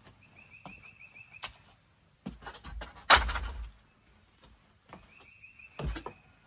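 A bird's short even trill of about seven quick notes, given twice, with the scuffs and thumps of footsteps on the ground. The loudest is a heavy thump about three seconds in.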